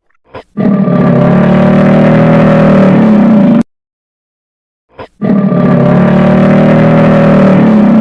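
An animal's long, steady, pitched call, given twice, each lasting about three seconds and each preceded by a brief short sound.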